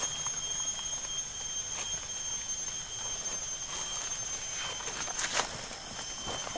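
Rainforest insects droning steadily at a high pitch, with a few short rustling sounds, one of them about five seconds in.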